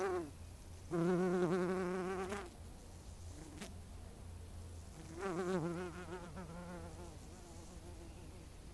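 A flying insect buzzing in two bursts, one about a second and a half long starting a second in, and a shorter one about five seconds in, its wingbeat pitch wavering up and down.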